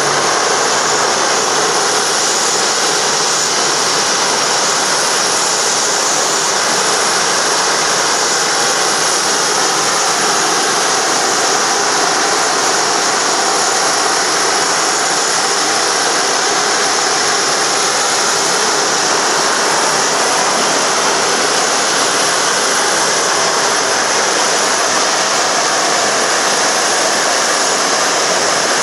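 Jet aircraft engine running steadily on the ground: a loud, even rush of noise with a thin, steady high whine over it.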